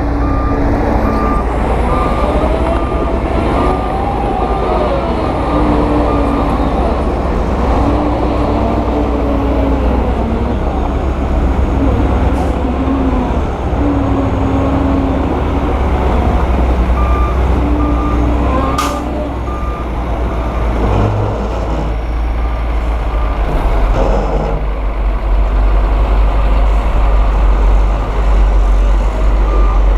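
Heavy diesel earthmoving machinery, a dump truck or bulldozer, running hard with its engine rising and falling in speed, while a reversing alarm beeps in spells near the start, about two-thirds through and at the end. A single sharp clank comes about two-thirds through.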